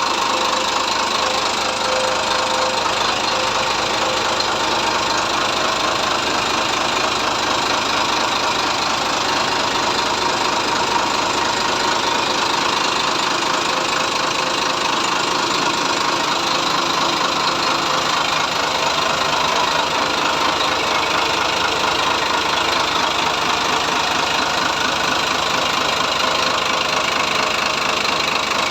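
280 hp Sinotruk diesel engine running steadily with a fast, even clatter; its low note shifts slightly about halfway through.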